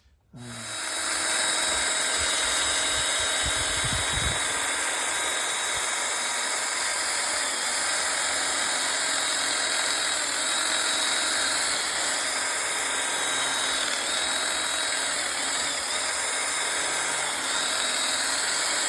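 A power tool running steadily at an even, loud level, switching on abruptly about half a second in.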